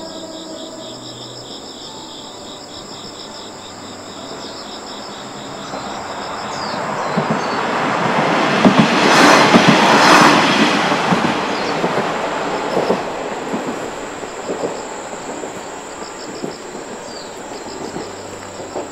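A red KiHa 40-series diesel railcar passes, growing louder to its loudest about halfway through, its wheels clattering over rail joints, then fading away. Insects call steadily throughout.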